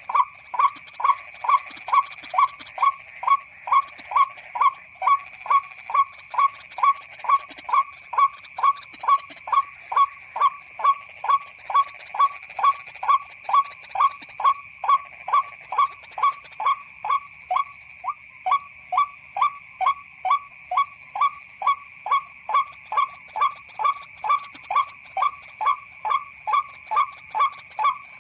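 White-breasted waterhen call played as a lure from an MP3 recording through a speaker: a short call repeated evenly about twice a second without a break, over a steady high-pitched drone.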